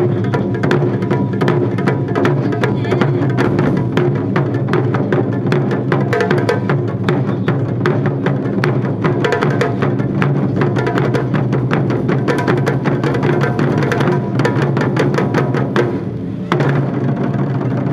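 Japanese taiko drums played as an ensemble in fast, dense strikes. About sixteen seconds in there is a short break, then the drumming starts again.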